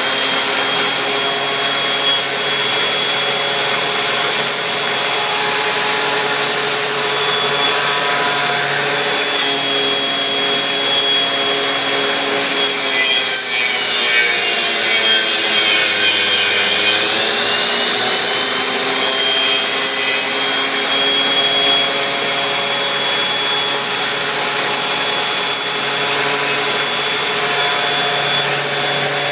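Saw on a homemade copy lathe cutting a spinning wooden blank: a steady high rasping hiss over a motor's whine. About halfway through, the whine sags in pitch and then comes back up.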